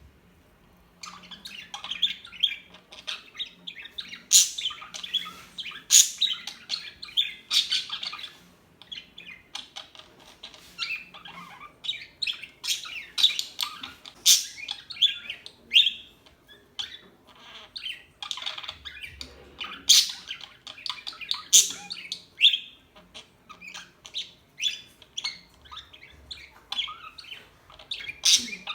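Pet budgerigars chirping and chattering, a dense run of quick, sharp, overlapping calls that starts about a second in.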